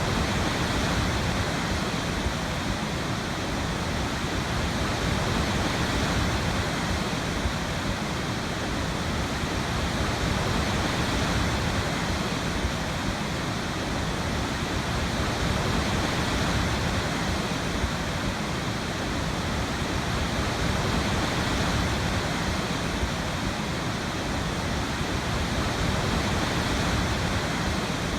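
Waterfall: a steady rush of falling water, slowly swelling and easing every few seconds.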